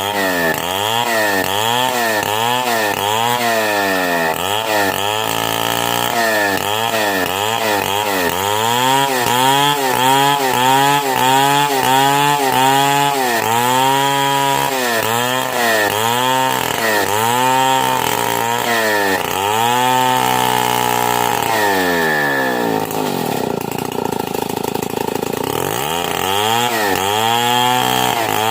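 Stihl 070 two-stroke chainsaw ripping a log lengthwise at high revs. Its engine note dips and recovers over and over, about twice a second, as the chain bogs in the cut. It holds steadier for a few seconds about three-quarters of the way through, then starts dipping again.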